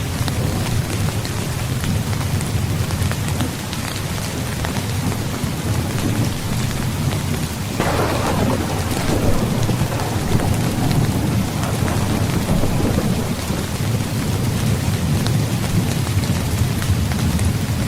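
Heavy rain falling steadily, with a low rolling rumble of thunder underneath. About eight seconds in, a sudden nearer thunderclap breaks out and rolls away over several seconds.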